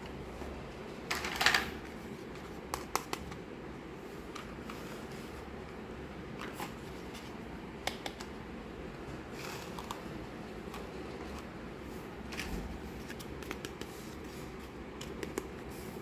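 Scattered light clicks, taps and rustles of miniature plastic toys and their packaging being handled. The loudest is a brief rustling scrape about a second and a half in, over a steady low room hum.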